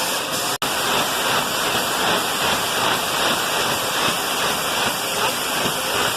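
Steady, loud hiss of steam venting from a steam locomotive, with a brief dropout just over half a second in.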